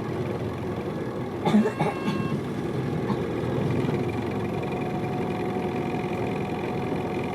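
Hino Liesse small bus heard from inside the cabin, its diesel engine running steadily. A short burst of knocks and rattles comes about a second and a half in.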